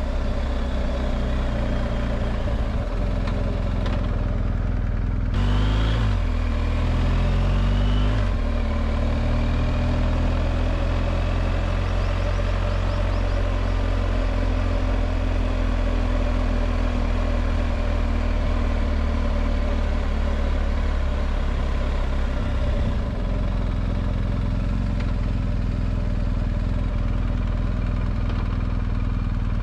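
BMW R1250GS Adventure's boxer twin running as the motorcycle is ridden. The engine note rises about five seconds in as it accelerates, then settles into steady cruising and changes again a little past twenty seconds.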